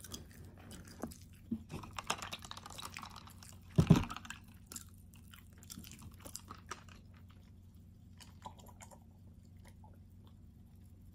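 Close-up chewing and crunching of a meat lover's calzone, with many small wet mouth clicks. A single loud thump comes about four seconds in, after which the chewing grows sparser and fainter.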